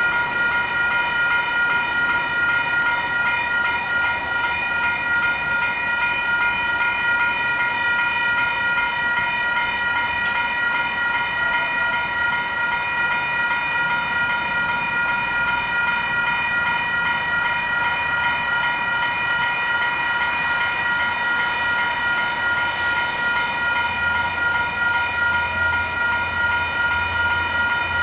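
Level crossing warning bells ringing continuously in a fast, even pulse. A low rumble comes in about 24 seconds in.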